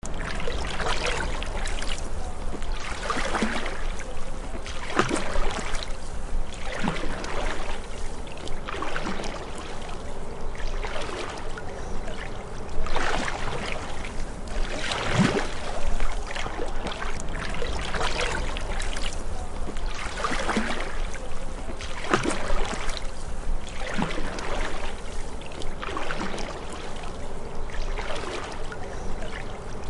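Canoe paddle strokes in lake water, a splash and trickle of water about every two seconds.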